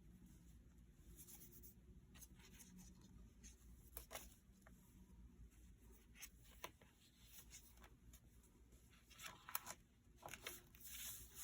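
Faint handling of a paper junk journal: soft paper rustles and small clicks and taps as pages and inserts are moved, with a longer rustle near the end.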